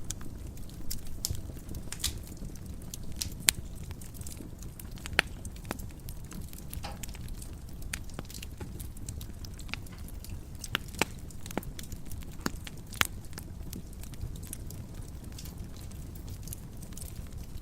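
Wood fire crackling in a fireplace: irregular sharp pops and snaps, a few of them louder, over the low steady rush of the burning logs.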